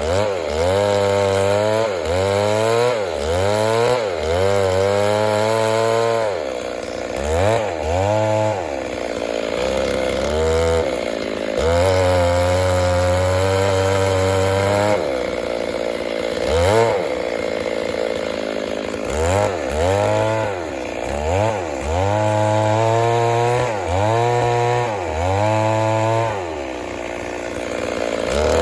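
Stihl MS 382 two-stroke chainsaw running at high revs, its pitch dropping and recovering again and again, with a few steady stretches at full speed.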